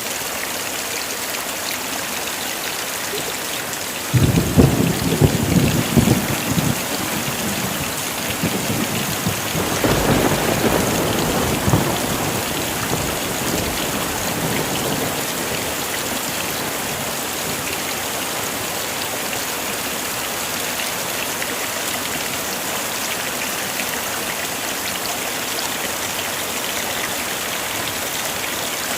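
Heavy rain falling steadily, with a clap of thunder about four seconds in that rumbles for a few seconds, and a second, weaker roll of thunder around ten seconds in.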